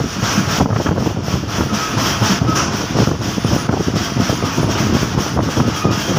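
Passenger train running along the track, heard from inside a coach: a steady rumble with irregular clatter and rattling of the wheels and carriage.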